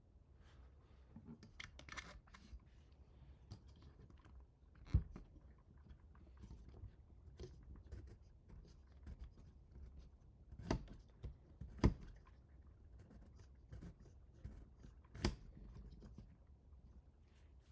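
Hands handling small 3D-printer parts and tools during assembly: scattered light clicks and scrapes, with four sharper knocks, one about five seconds in, two close together near the middle and one later on.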